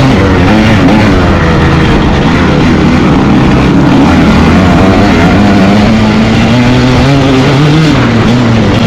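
Dirt bike engine revving up and down, its pitch rising and falling continuously.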